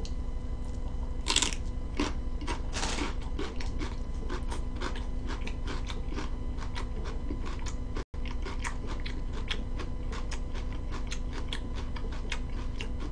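Close-miked eating: crisp bites crunching and chewing, with two louder crunches about one and three seconds in, followed by steady wet chewing clicks. The audio drops out for an instant about eight seconds in.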